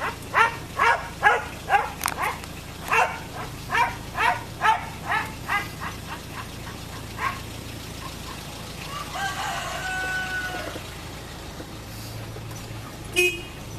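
Chickens calling in a rapid run of short squawks, about two a second for the first seven seconds, then one longer drawn-out call, over a steady low hum.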